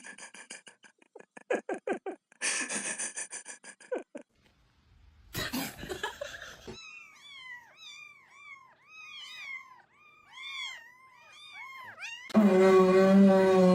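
Cats vocalising: a rasping sound early on, then a run of short repeated chirping calls, and a loud drawn-out meow near the end.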